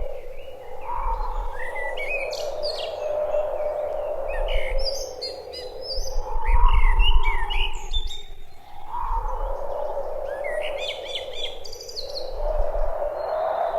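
Small birds chirping and singing in short, quick phrases, several at once, over a steady background wash with occasional low rumbles.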